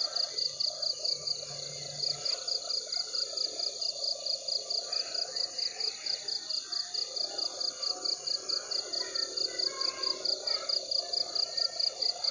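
Night chorus of crickets chirping in a fast, even pulse of about four to five chirps a second, with frogs calling lower down.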